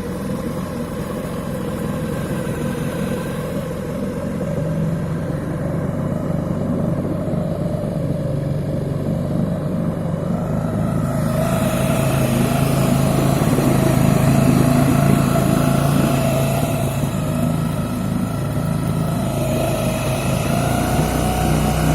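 Small petrol engine of a Salyut walk-behind tractor running steadily, growing louder and brighter from about halfway through.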